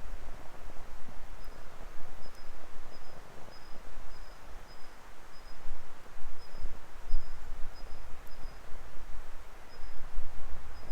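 Firewood burning in an open fire pit: a steady low rush with a few sharp crackling pops. A faint high chirp repeats about every half second.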